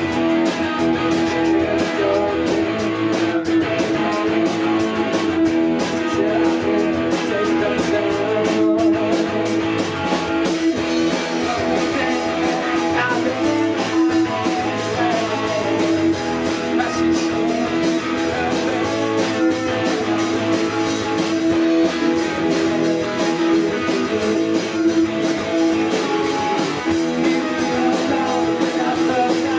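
Live rock band playing an instrumental passage: electric guitars over a drum kit, with a held note underneath and fast, even ticks from the cymbals that stop about ten seconds in.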